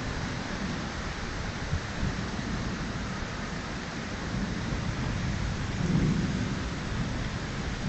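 Thunderstorm: steady rain with a low rolling rumble of thunder that swells about six seconds in.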